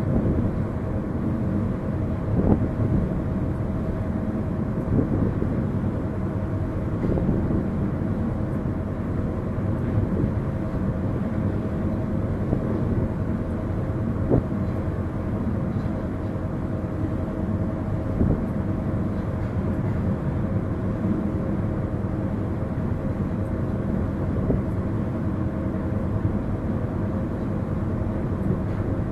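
Ferry's engine running with a steady low rumble and a constant hum, with a few faint knocks scattered through it.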